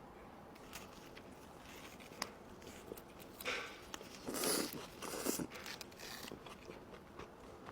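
Handling and eating takeout food: scattered clicks and light scraping, with a few short rustles of wrapping or container, the loudest a little past the middle.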